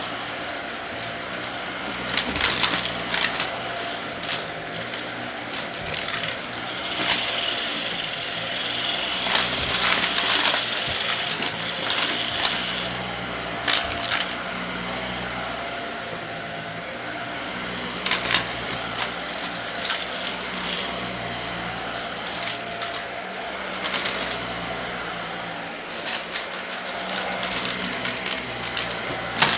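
Vacuum cleaner running steadily while sucking up crunchy debris, with frequent sharp crackles and clicks as the bits rattle up through the machine. A brighter hissing whine swells for several seconds in the middle.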